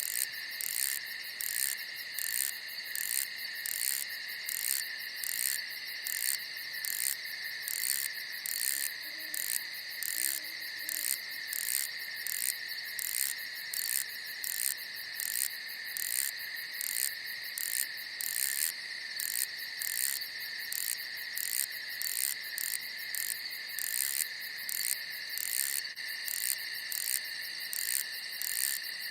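Night insects, crickets or the like, chirring without a break: a steady high trill together with a pulsing chirp about twice a second.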